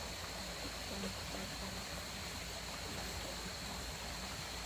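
Steady rushing of flowing water, like a stream, with a thin high tone held steadily above it.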